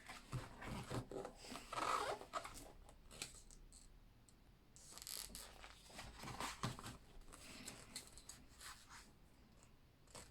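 Pages of a large, thick book being turned by hand: paper rustling and sliding in two main bursts, with lighter rustles between.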